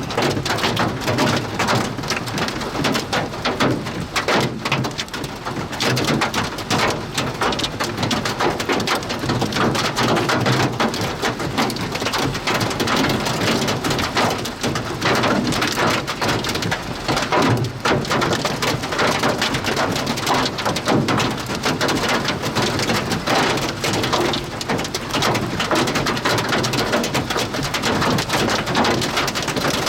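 Heavy thunderstorm rain pelting down hard on a surface, a dense and steady patter of hits with no let-up.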